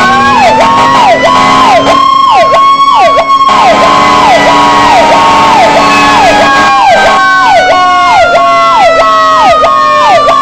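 Fire truck sirens sounding together and very loud: a fast yelp repeating about twice a second, overlaid by slower wails rising and falling in pitch.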